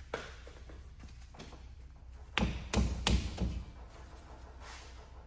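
Tools knocking against metal suspension parts: a sharp click, then about four loud knocks in quick succession around the middle, over a low steady hum.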